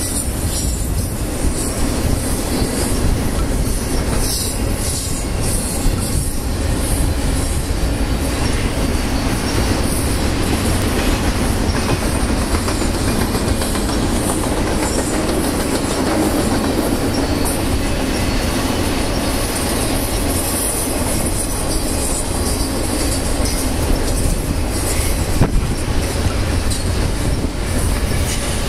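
BNSF double-stack and TOFC freight cars rolling past at speed: steel wheels running on the rail in a loud, steady din, with scattered clacks and a high wheel squeal.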